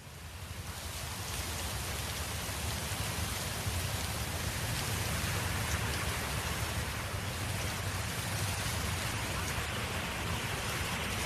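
Steady wind noise in an open field: an even rushing hiss with a strong low rumble, swelling up over the first two seconds and then holding level.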